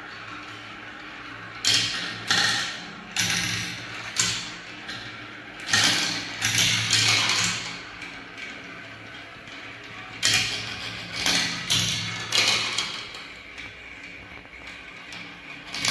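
Marbles rolling and clattering down the ramps of a marble run: irregular clicks and rattles, each fading as the ball rolls on, a dozen or so through the stretch.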